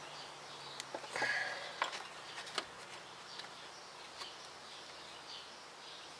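A few faint clicks and a brief scrape in the first three seconds as a hose clamp is worked back into position on an engine hose, then faint bird chirps in the background.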